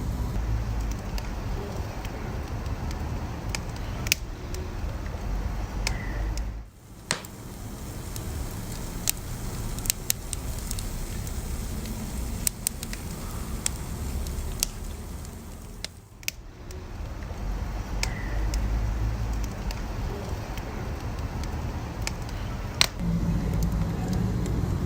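Wood fire burning with a steady low rumble and scattered sharp crackles and pops. The rumble drops away briefly twice.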